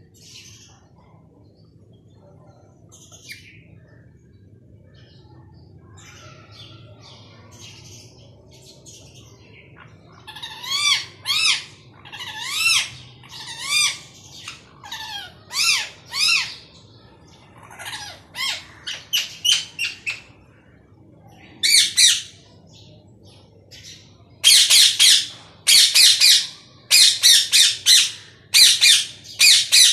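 Pet parrot calling: faint scattered chirps at first, then from about ten seconds in a run of repeated calls that rise and fall in pitch, and near the end loud harsh squawks, one after another in quick succession.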